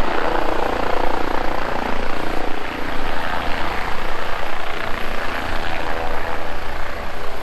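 Air ambulance helicopter running, its rotor and engine noise loud and steady.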